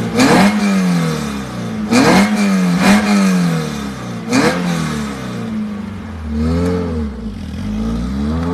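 Peugeot 205 GTI with a GTI-6 2-litre 16-valve engine conversion being revved while stationary. Four sharp throttle blips in the first half, each dropping back to idle, then a softer one near the end.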